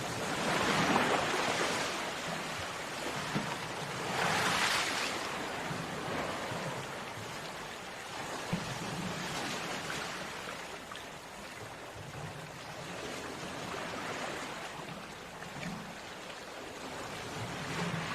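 Sea waves breaking on a beach: a steady wash of surf, with two stronger breakers about a second in and about four and a half seconds in, then gentler surging.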